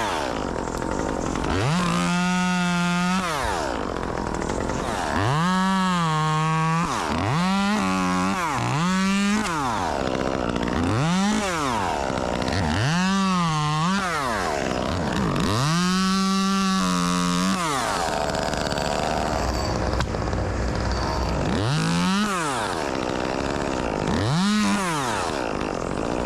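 Chainsaw cutting wood, revved up to full speed and let back down to idle about ten times, each burst lasting a second or two. The wood is western red cedar.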